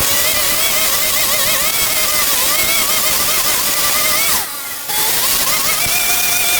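A small engine running steadily, its pitch wavering a little, with a brief drop-out for about half a second near the two-thirds mark.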